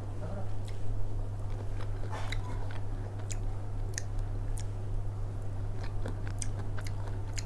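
Close-up sounds of a person chewing a mouthful of food, with small wet mouth clicks and a little crunch scattered throughout. A steady low hum runs underneath.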